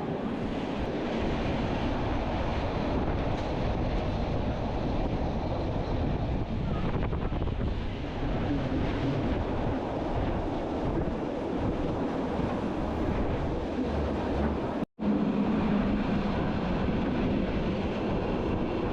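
Wind buffeting the microphone over the steady running rumble of a train, heard from an open observation carriage on the Bernina line. The sound cuts out for an instant about fifteen seconds in.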